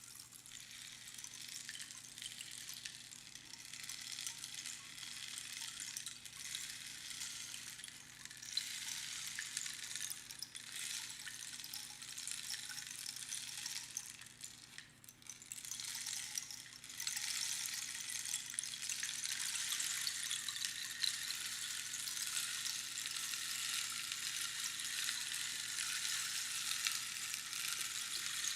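Rainstick: pebbles trickling down past the pins inside the hollow tube, a dense rain-like hiss. It thins out twice, about 8 and 15 seconds in, and picks up again, fuller from about two-thirds of the way through.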